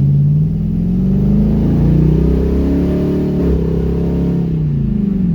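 LS-swapped Pontiac Firebird's V8 accelerating. The engine note climbs over the first couple of seconds, holds, then falls away near the end, as the car is driven to see whether its transmission will shift into second gear.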